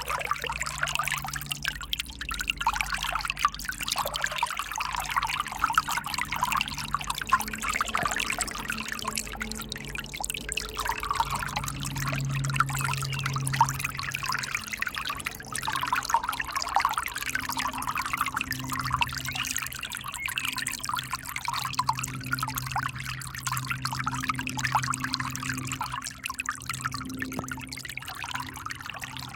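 River water flowing and splashing over rocks, a steady, busy babble.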